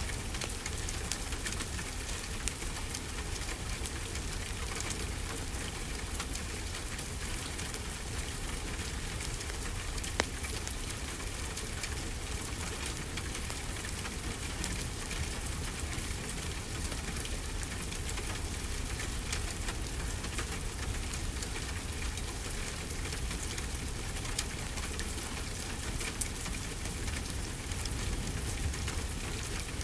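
Steady rainfall with a few sharp crackles and pops from a wood fire.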